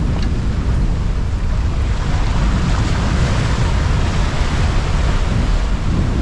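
Wind buffeting the microphone over the rush of breaking sea water around a sailing yacht, the water's hiss swelling through the middle as a steep wave picks up the boat and it surfs down it.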